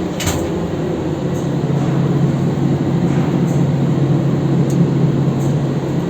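Ship's engine room machinery running with a loud, steady drone, with a short click about a third of a second in.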